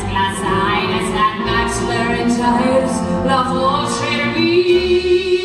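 Music: a woman singing wordless held notes over orchestral accompaniment, ending on a long sustained note.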